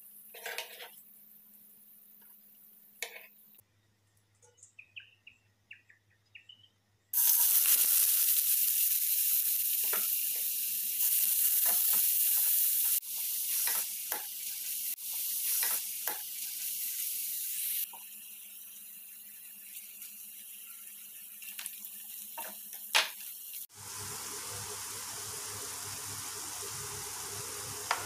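Paneer shallow-frying in oil with a quiet sizzle, then a loud sizzle that starts suddenly about seven seconds in as chopped onions fry in oil in a steel kadai. Clicks and scrapes of a spatula stirring run through it.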